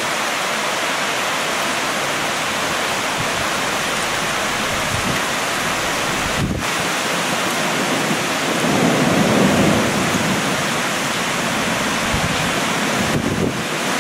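Heavy rain pouring steadily, with a low rumble of thunder swelling about eight or nine seconds in and dying away over a second or two.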